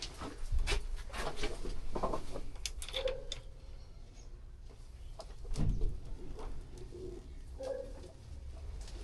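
A pigeon cooing a few times, with scattered clicks and knocks and a low background rumble.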